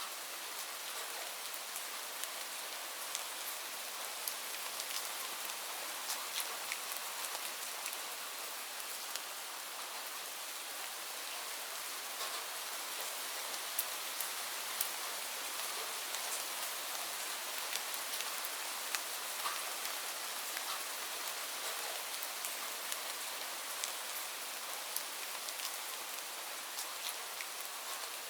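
Steady rain falling, an even hiss with many small drops ticking sharply on a hard surface.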